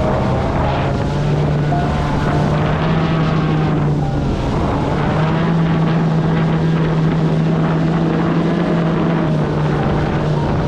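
Electric kart boat running on the water: a steady low hum from its drive over rushing water, with wind on the microphone.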